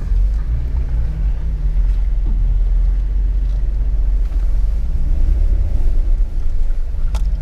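Jeep Wrangler running at low speed over a muddy off-road trail, heard from inside the cabin as a steady low rumble. A single sharp knock comes near the end.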